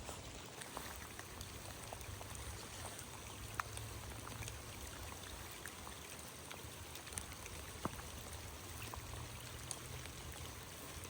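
Steady rush of creek water flowing, with rain falling and scattered small ticks of raindrops.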